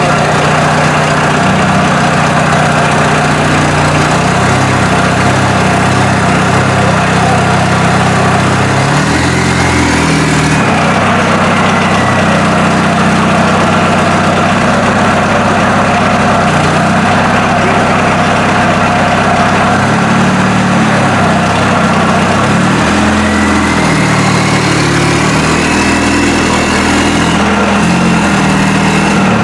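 Volkswagen Jetta's 1.6-litre turbo-diesel engine running, its speed rising and falling several times as the car is moved. A faint rising whistle comes in about ten seconds in and again over the last few seconds.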